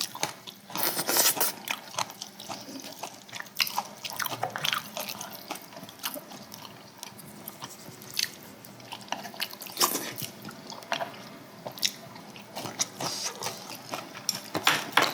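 Close-miked eating: irregular wet chewing and crunching mouth sounds with small clicks.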